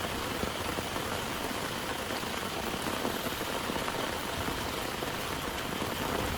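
Heavy rain falling steadily, an even, unbroken patter.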